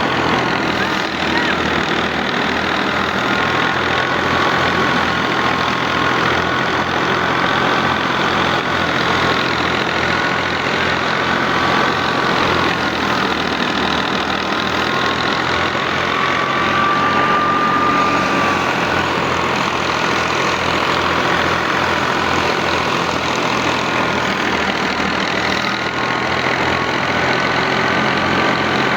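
Al-Ghazi tractor's diesel engine running steadily while driving a mustard thresher, with a dense machinery clatter over a fast low pulse. A high whine wavers slightly in pitch, rising briefly about two-thirds of the way through.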